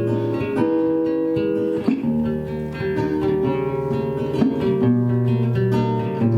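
Acoustic guitar playing a picked and strummed chord introduction to a song, with the chords changing every second or two.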